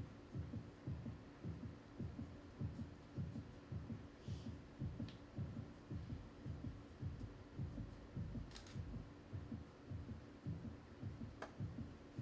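Heartbeat sound effect: a steady, regular low thumping pulse with a faint steady hum underneath.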